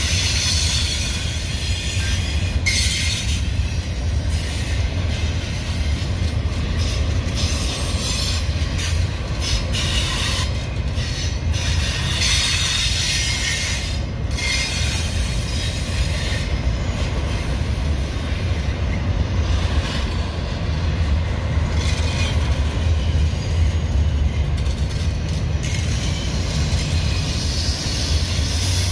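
Union Pacific double-stack intermodal container cars rolling past at speed: a steady low rumble of wheels on rail, with high hissing wheel-and-rail noise that swells and fades again and again.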